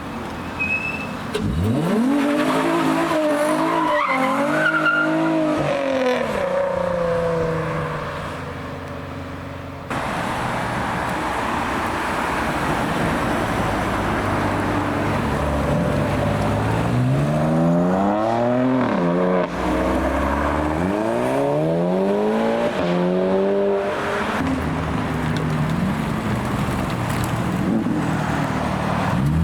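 Performance cars accelerating hard, engines revving up through the gears. One car's engine pitch shoots up about two seconds in. From about halfway, another engine rises and drops back several times in a row as it shifts up.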